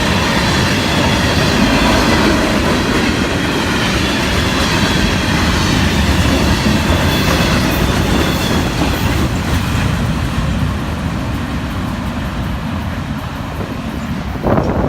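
Freight cars of a Florida East Coast Railway train rolling past: a steady rumble of steel wheels on the rails.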